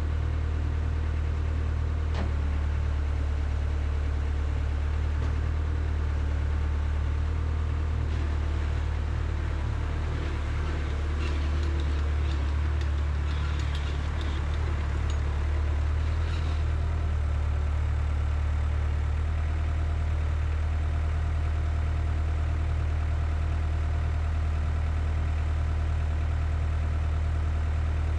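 A Cat 247 skid steer's diesel engine idling steadily, with a few light clicks and rattles near the middle.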